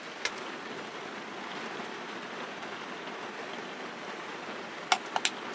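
Rain falling on the roof of a small TAB 320 caravan, heard from inside as a steady, even hiss, with a few short clicks just after the start and again near the end.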